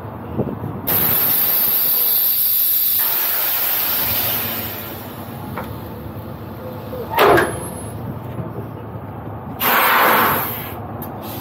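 Compressed air hissing out of a semi truck's air system in three releases: a long one starting suddenly about a second in, a short sharp one near seven seconds, and another near ten seconds. This is typical of air being dumped and refilled in the air-ride suspension while the axle weights of a heavy load are balanced.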